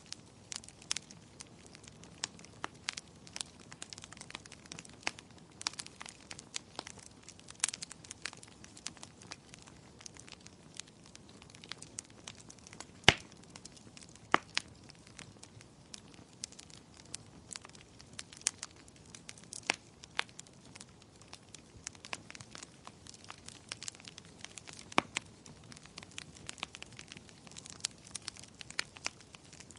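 Wood fire crackling, with dense, irregular small snaps and a few louder pops: one about 13 seconds in, another a second and a half later, and one near 25 seconds.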